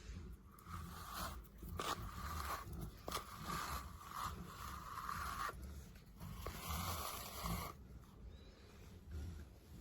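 Tangle Teezer Pet Teezer bristle brush stroked through a dog's coat: a run of soft scraping brush strokes with short pauses between them, dying away about eight seconds in.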